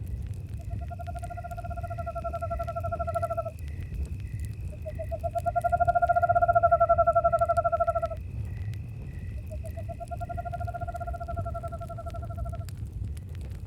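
An owl calling three long, quavering trilled hoots of about three seconds each, the middle one loudest. Crickets chirp in a steady pulse behind them.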